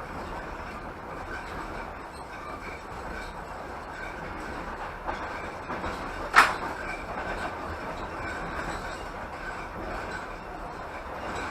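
Passenger train carriage running along the track, with a steady rumble of wheels on the rails heard from inside the car. One sharp, loud clack comes about six seconds in.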